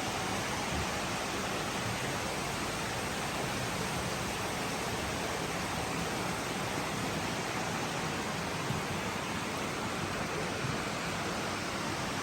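Steady rush of running water from indoor koi ponds and their filtration system, an even hiss with no breaks.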